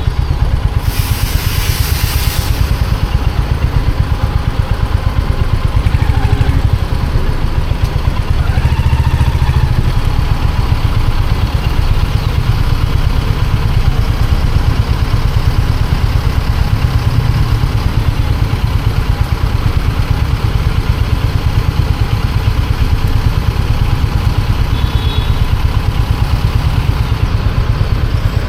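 Royal Enfield Hunter 350's single-cylinder 349 cc engine and exhaust running at low, steady revs with an even pulse. A brief hiss about a second in.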